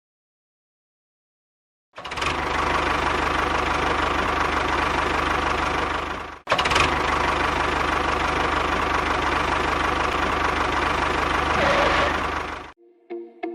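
An engine running steadily at an even speed, in two stretches split by a sudden brief cut, after a couple of seconds of silence.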